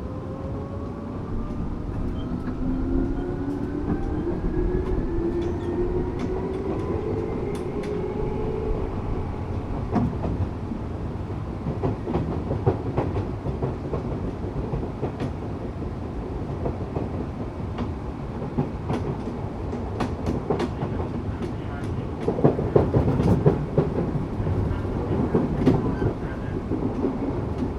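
Tokyu 8500-series train with Toyo-built traction motors: the motor whine rises in pitch as the train accelerates over the first eight or so seconds. After that the train runs on steadily, with rumbling wheel noise and clicks from the rail joints.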